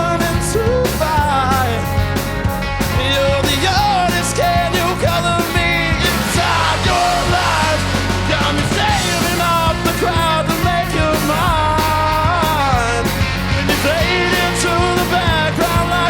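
Rock band playing live: loud, continuous full-band music with regular drum hits and melodic lines that bend up and down in pitch.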